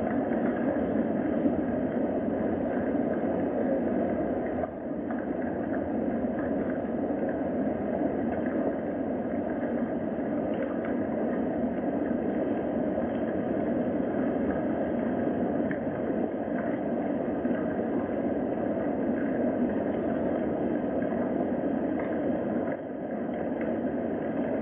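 Steady rain ambience: an even, low rushing noise with no distinct rhythm, dipping briefly twice.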